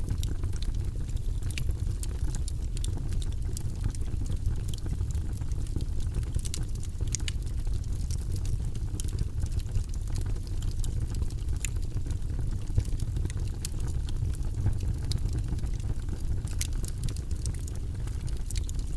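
Wood fire of burning logs, a steady low rumble of flames with frequent sharp crackles and pops scattered irregularly throughout.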